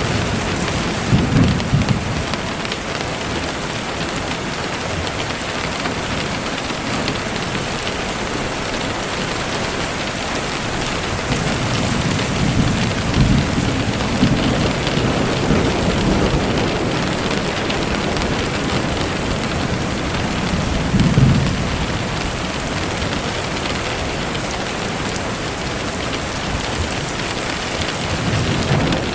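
Steady rain falling, with low rolls of thunder: a short one near the start, a longer roll through the middle, and another about two-thirds of the way through.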